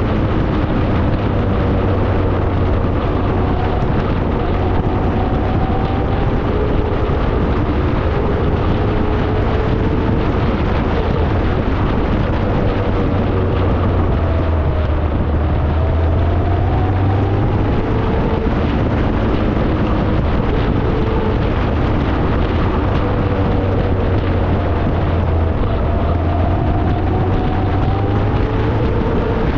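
Hillman Imp on the move: its rear-mounted four-cylinder engine runs with a steady drone under road and wind noise, the engine note slowly rising and falling back every several seconds as the revs change.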